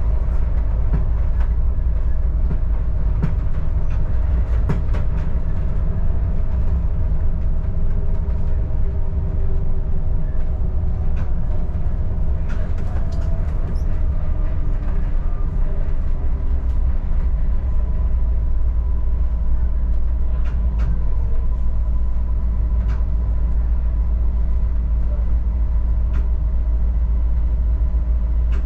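Adelaide Metro diesel railcar running along the Belair line, heard from on board: a steady low rumble with a faint steady whine and scattered clicks from the wheels on the track.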